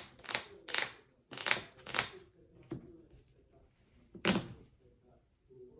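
Trading cards being handled on a table: a quick run of card swishes about every half second for the first two seconds, then a single louder thump a little after four seconds.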